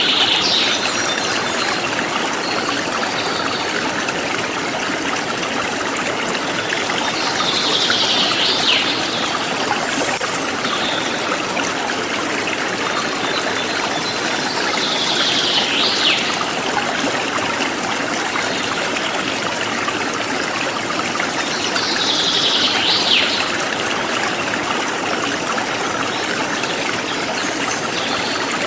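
A forest stream flowing steadily, with a short high bird song phrase of quick falling notes repeating about every seven seconds.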